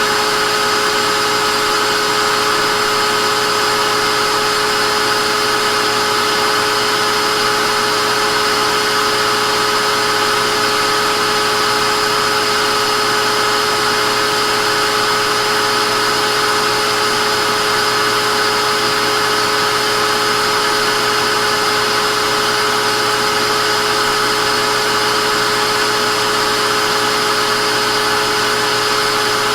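Vacuum cleaner motor running steadily, a constant rushing hiss with a high whine over it.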